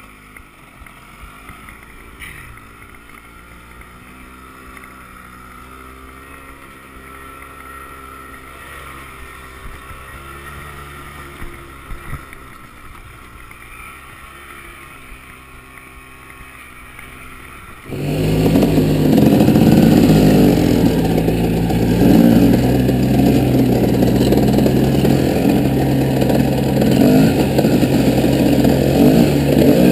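Off-road vehicle engine running at a moderate level with a steady tone. About two-thirds of the way through, it abruptly becomes much louder and rougher, an engine running close up under throttle.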